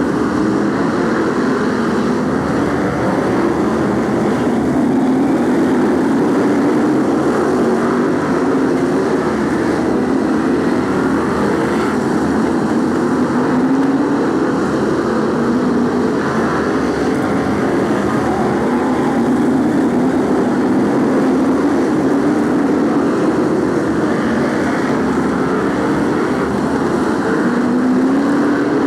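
A field of BriSCA F1 stock cars racing, their V8 engines running loud and continuous, with the pitch rising again and again as cars accelerate.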